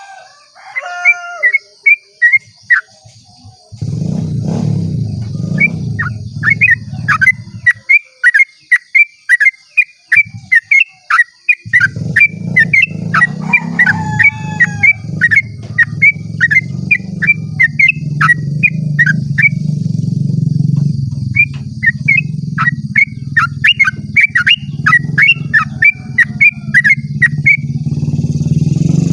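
Yellow-vented bulbul (trucukan) singing a long rolling song: quick runs of short chirping whistles, about three a second, broken by brief pauses. A steady high whine and, from a few seconds in, a low rumble run underneath.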